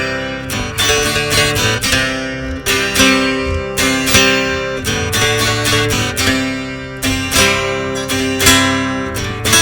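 Acoustic guitar music: chords strummed over and over, with the notes ringing on between strokes.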